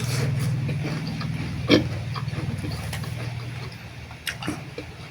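Close-up eating sounds: noodles being slurped and chewed, with a loud wet smack about a second and a half in and small mouth clicks near the end. Under them runs a low buzzing hum that fades away.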